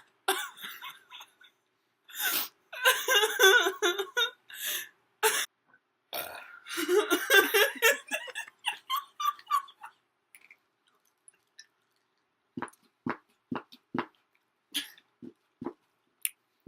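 A person burping loudly several times in a row. After a pause comes a run of short light clicks, about two a second.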